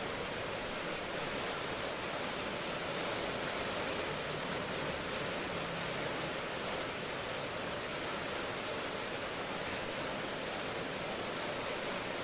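Steady rain ambience: an even, continuous hiss of falling rain with no separate drops or thunder standing out.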